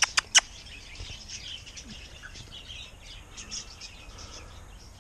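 Birds chirping and calling in short high notes throughout, with two or three sharp clicks in the first half second.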